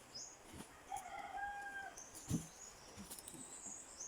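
A rooster crowing faintly once, a single call just under a second long starting about a second in, with small high chirps of birds around it. A short dull knock comes a little after the crow.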